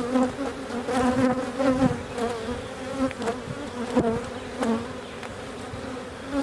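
Many honey bees buzzing around an opened hive in a continuous wavering drone, with single bees flying close past and sweeping up or down in pitch. A few light clicks and knocks break in now and then.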